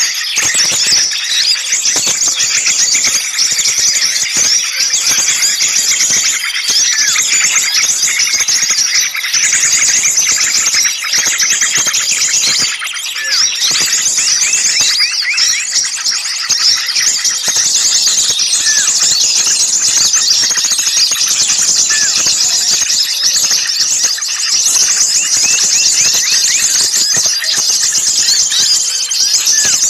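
A dense, continuous chorus of many small songbirds calling and chattering at once in high-pitched, overlapping notes. It is a lure recording of small birds in a noisy, agitated frenzy.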